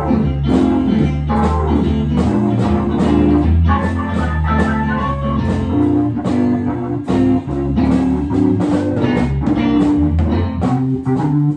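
Blues-rock band music: electric guitar over bass and a steady drum beat.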